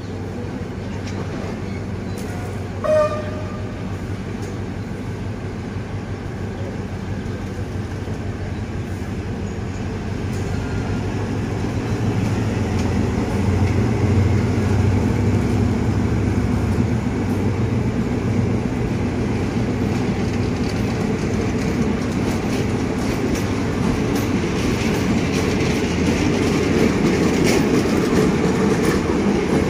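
Diesel-hauled State Railway of Thailand passenger train moving off and rolling past, a continuous rumble and clatter of wheels and running gear that grows louder from about ten seconds in and stays strong. A brief horn toot sounds about three seconds in.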